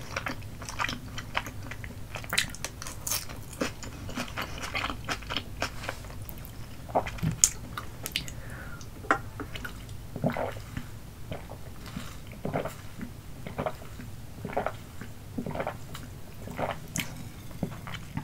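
Close-miked chewing of soft, chewy rice cakes in a spicy cheese sauce: irregular wet mouth clicks and smacks. About halfway through there is a sip from a drink through a straw.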